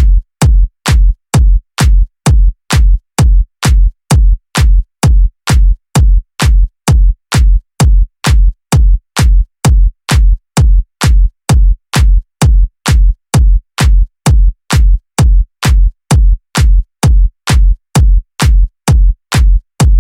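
Electronic dance music reduced to a bare kick drum: a steady four-on-the-floor thump, about two beats a second, with nothing else playing between the beats.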